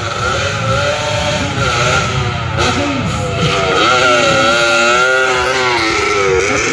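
Several motocross dirt bikes' engines revving up and down together as they race, their pitches rising and falling and overlapping.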